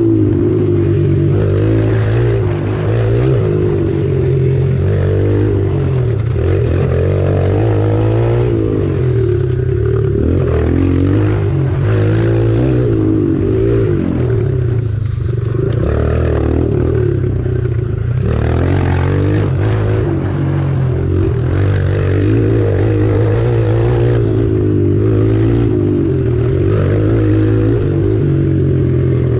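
Kawasaki KLX140 pit bike's single-cylinder four-stroke engine running hard, its pitch rising and falling again and again as it is revved and shifted, over a steady low rumble.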